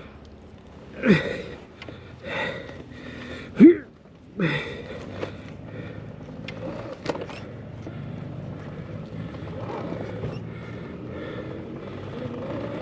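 A few short grunts and exclamations from the rider in the first few seconds, then the Arctic Leopard XE Pro electric dirt bike running steadily over rough ground.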